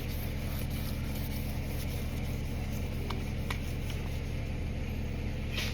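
Steady low hum of a running motor, even in level, with a couple of faint clicks about three seconds in.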